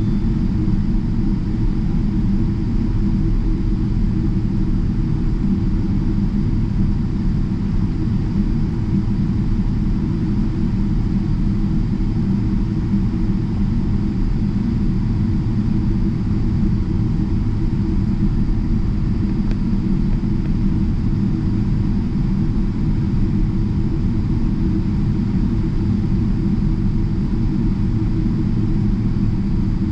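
Steady low rumble inside the cabin of a Boeing 777-300ER as it taxis, its engines running at low power with a few steady low hums, unchanging throughout.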